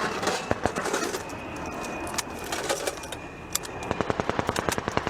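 Small-arms gunfire: scattered single shots, then a rapid automatic burst of about eight rounds a second starting about four seconds in.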